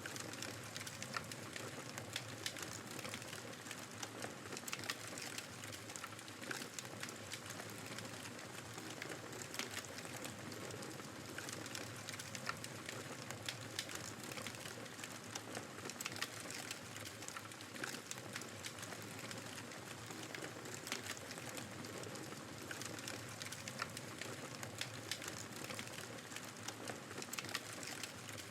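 Wood fire crackling in a fireplace with many small sharp pops, over the steady rushing noise of a snowstorm's wind.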